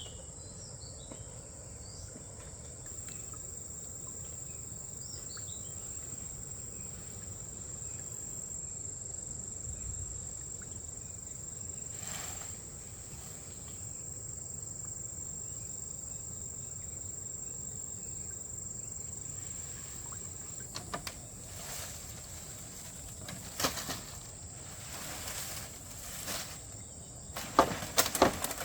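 Insects droning outdoors as one steady high-pitched tone. In the last third it gives way to a few sharp knocks or clatters, the loudest cluster near the end.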